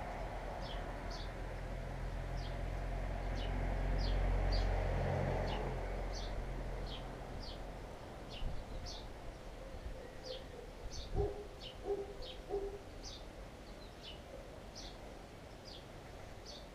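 Daytime outdoor ambience: a small bird chirping over and over, short high chirps about two a second, over a low rumble of distant traffic that swells about four seconds in and fades out by about seven seconds. A few short, lower-pitched calls come around eleven to thirteen seconds in.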